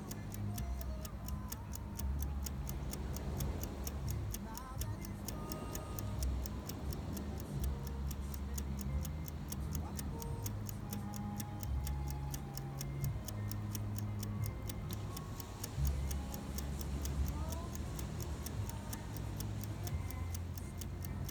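Steady rhythmic high-pitched ticking, about four ticks a second, over a low hum that shifts in pitch every second or two, with a few faint short chirps.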